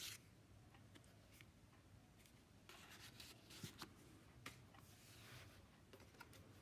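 Near silence with faint rustling of paper and card being handled, and a few soft taps.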